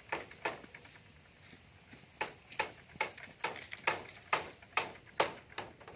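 Hammer driving nails into the coop's wooden or bamboo frame, with sharp ringing blows: two near the start, then a steady run of about two blows a second for some three seconds.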